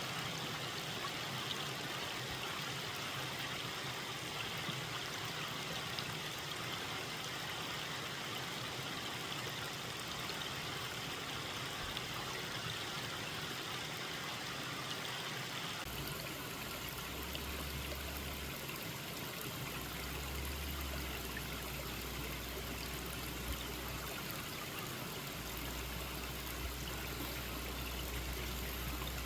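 Mountain valley stream flowing steadily, a continuous rush of water. About halfway through the sound changes, with a low rumble joining in.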